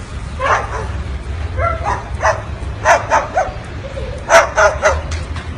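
Short, high yapping barks, about a dozen, coming singly and in quick runs, the loudest run about four and a half seconds in, over a steady low hum.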